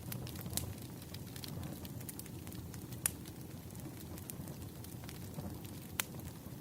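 Burning wood crackling: a steady low rumble with scattered sharp pops, the loudest about three seconds in and again near the end.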